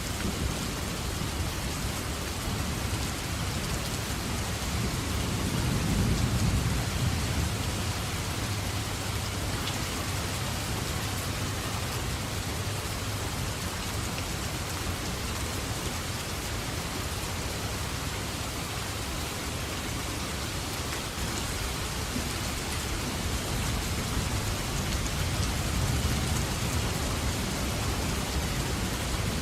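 Steady heavy rain falling in a forest, with distant thunder rumbling low: one swell of rumble a few seconds in and another building near the end.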